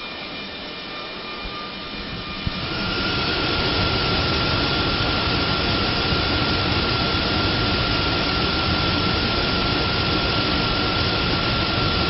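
The 2002 GMC Sierra 2500's 6.0-litre V8 running. About two and a half seconds in it is brought up to a higher, steady speed, and a steady high whine rises a little in pitch with it.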